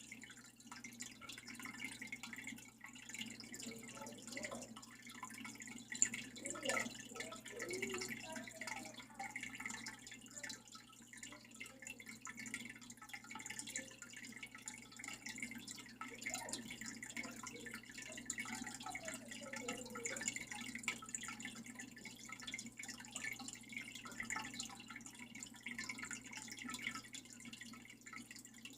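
Water dripping and trickling steadily from a small waterfall, with faint wavering tones about four to nine seconds in and again around sixteen to twenty seconds.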